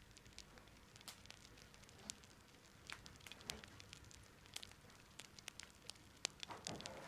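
Faint, irregular small clicks and crackles, a few each second, over near silence.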